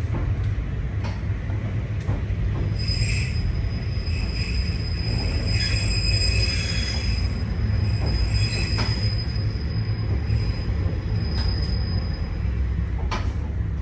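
Nankai 2200 series train's wheels squealing on a curve: a high, steady squeal that sets in about three seconds in and dies away near the end, over the low rumble of the train running, heard from inside the car.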